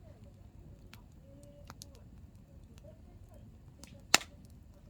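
Hardwood campfire burning, with a low rumble and scattered small crackles from the firewood, and one loud sharp pop about four seconds in.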